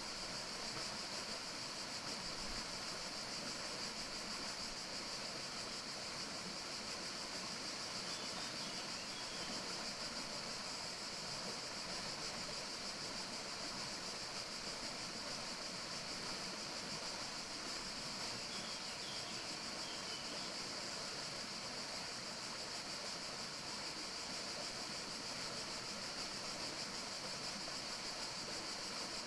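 Steady, even hiss of outdoor nature ambience, strongest in a high band, with faint short chirps twice, about a third and two thirds of the way through.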